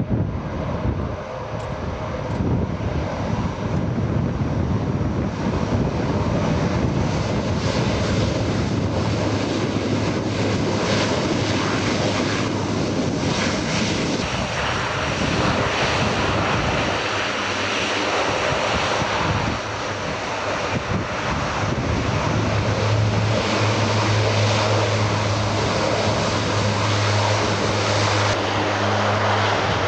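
Aircraft flying over, its engines running steadily with a low, even hum that grows stronger in the second half.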